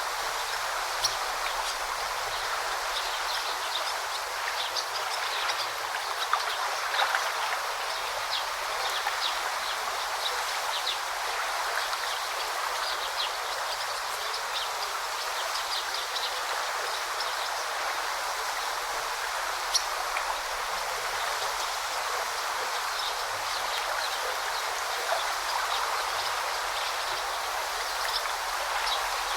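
Forest river flowing steadily, a continuous rush of water with many short high-pitched flicks scattered through it.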